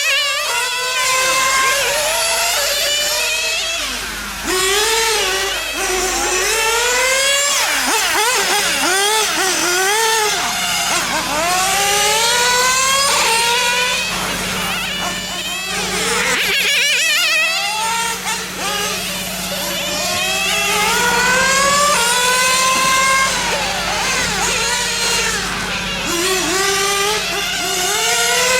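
Small nitro (glow-fuel) engines of radio-controlled touring cars running on a track, several at once, each rising in pitch over and over as it accelerates and dropping back as it lets off for corners.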